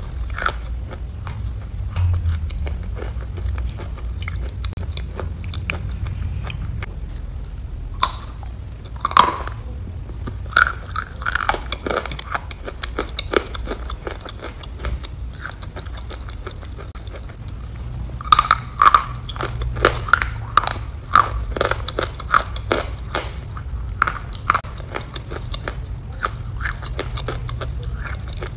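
Close-miked chewing and wet mouth clicks and smacks from eating spoonfuls of a soft white food, over a steady low hum. The clicks come in denser, louder clusters about eight to twelve seconds in and again from about eighteen seconds.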